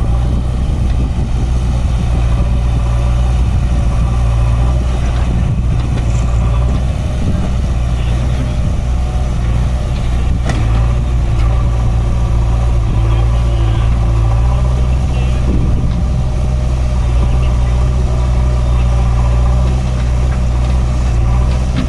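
Swaraj 744 FE tractor's three-cylinder diesel engine running steadily at an even speed, with one sharp click about halfway through.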